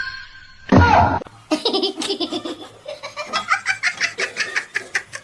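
A person laughing hard: a run of quick, repeated laughs, after a short loud voiced burst about a second in.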